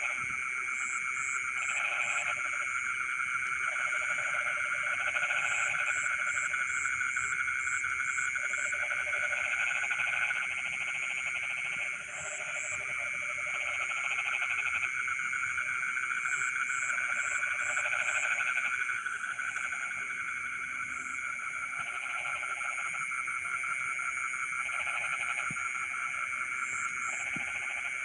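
Night chorus of frogs in a rice field: continuous, many-voiced trilling, with lower croaking calls coming and going in bouts of about a second. High, short chirps repeat in quick runs of three to five now and then.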